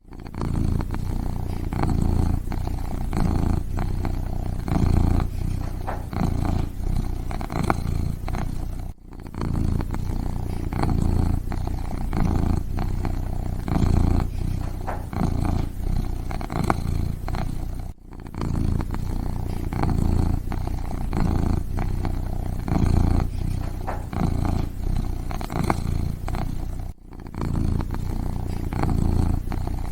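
Kitten purring steadily, a low buzzing purr that swells and eases about once a second. It breaks off briefly about every nine seconds.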